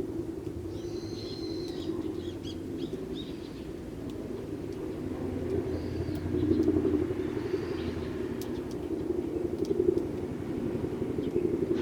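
Eurasian tree sparrows giving short chirps in a few brief clusters over a steady low rumble of distant traffic, which is the louder sound and swells about halfway through.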